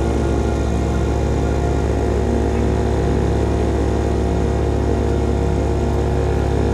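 Single-cylinder engine of a CFMOTO Papio X-01 SS motorcycle running through a KO Lightning slip-on exhaust, holding a steady pitch at a constant speed.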